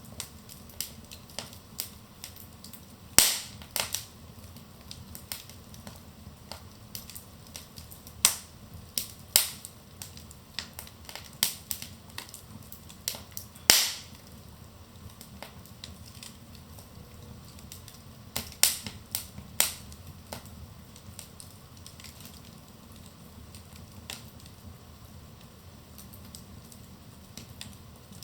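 Wood fire burning in a fireplace, crackling with sharp irregular pops and snaps over a low steady hiss of the flames; a cluster of louder pops about 3 to 4 seconds in and a sharp snap about 14 seconds in.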